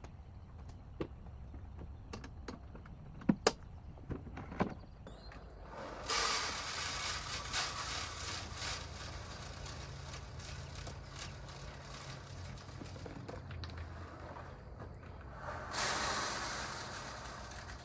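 Sweet corn seed poured from a bag into the planter's seed boxes: a rattling rush of kernels for about four seconds, then a second, shorter pour near the end. Before it, a few sharp knocks of the metal seed boxes being handled.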